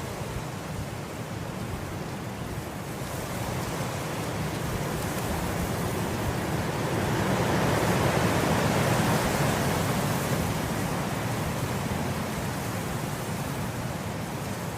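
Wind blowing through grass as a steady rushing hiss that swells into a stronger gust about halfway through, then eases back.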